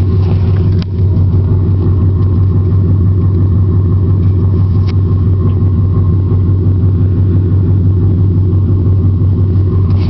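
Ford 5.4-litre V8 of a 2000 F-150 running steadily through an exhaust with long-tube headers, no catalytic converters and a Magnaflow muffler, a deep even note with no revving. The level dips briefly about a second in.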